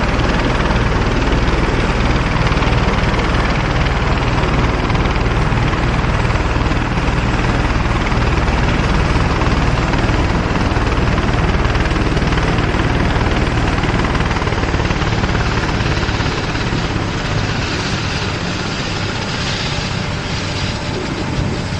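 Helicopter running steadily, a loud, even rotor and engine noise that grows a little fainter near the end.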